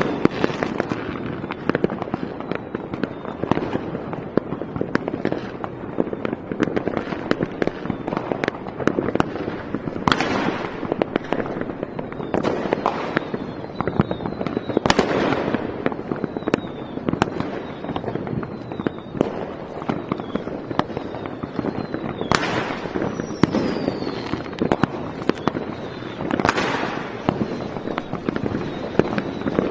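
Fireworks going off continuously, a dense crackle of pops with several louder bangs spread through, and a few faint whistles.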